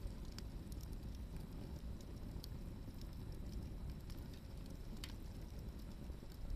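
Wood fire burning, with a few sharp crackles and pops over a steady low rumble.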